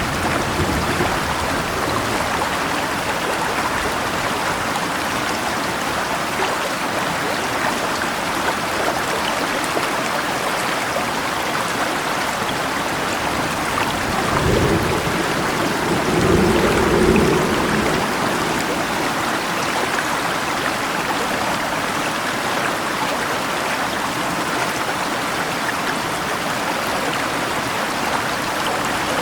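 Steady rain falling over a flowing river, with a low roll of thunder rumbling about halfway through.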